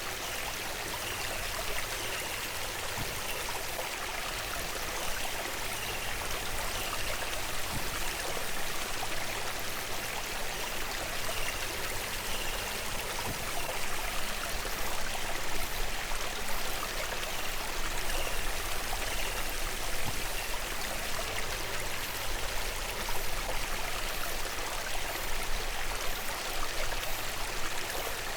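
Steady rush of running stream water. Faint short high notes recur about once a second during the first two-thirds.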